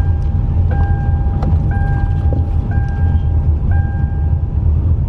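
A car's electronic warning chime beeps about once a second, each beep a steady tone lasting nearly the whole second, then stops near the end. Underneath is the low rumble of the car's cabin as it drives.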